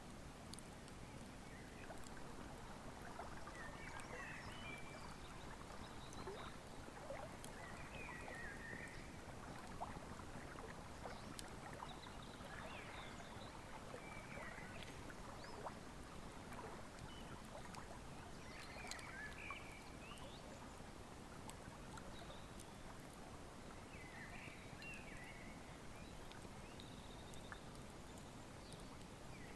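Wood fire crackling with frequent small sharp pops over the steady rush of a flowing river, with short high bird chirps every few seconds.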